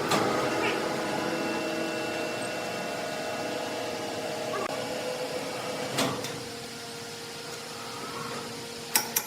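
Sawmill machinery running with a steady hum. There is a single knock about six seconds in and a quick run of sharp knocks near the end.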